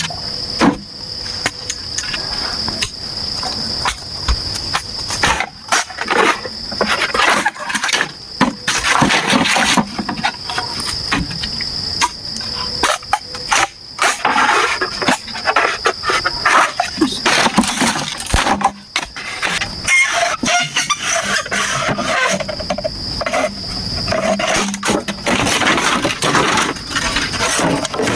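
A steady high-pitched insect drone runs throughout. Irregular knocks, clicks and scraping noises from hand work sit on top of it.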